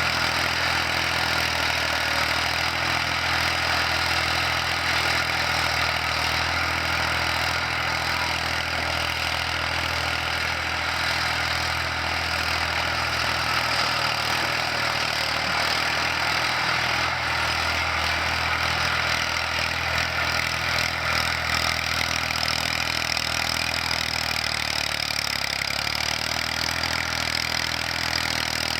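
Tractor engine running steadily, its speed dipping briefly near the end.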